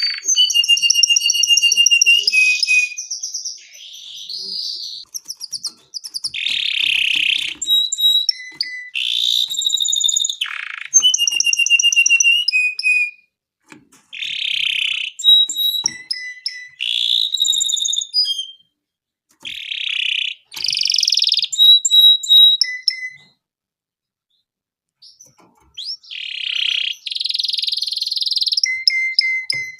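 Domestic canary singing its long song: phrase after phrase of rapid trills and rolls, each held for a second or two and changing pitch from one phrase to the next, with a pause of about two seconds roughly three quarters of the way through.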